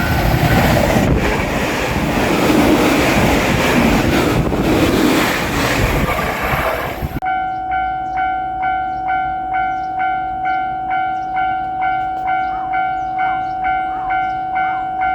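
A JR Shikoku 8000 series train passing on the rails with a dense rumble. About seven seconds in, the sound cuts off abruptly to a Japanese level-crossing signal's electronic bell, a ringing tone repeating about twice a second.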